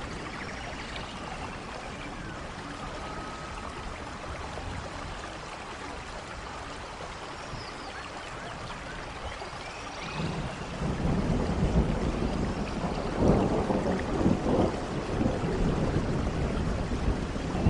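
Steady rain falling in a forest, with a low rolling rumble of thunder that builds about ten seconds in and is loudest a few seconds later.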